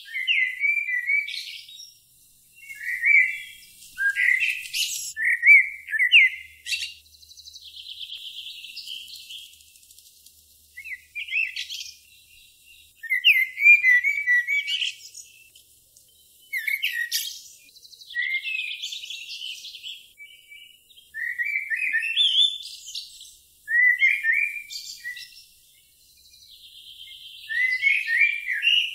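Songbird singing short chirping, warbled phrases again and again, a few seconds apart, with fainter buzzy trills between them.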